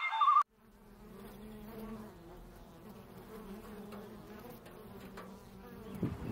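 Flying insect buzzing: a low, steady drone that wavers slightly in pitch. It follows a brief loud, high warbling sound that cuts off abruptly about half a second in, and low rustling thuds come in near the end.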